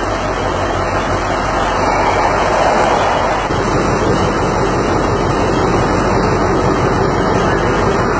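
Diesel train standing at the platform with its engine running, a steady rumble and noise with a low hum.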